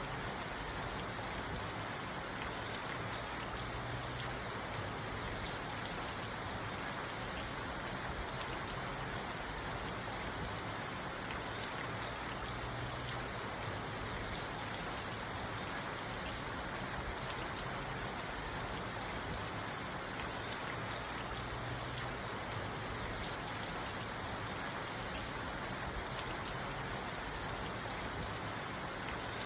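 Steady rain falling on a parked car's roof and windows, heard from inside the car; no thunder in this stretch.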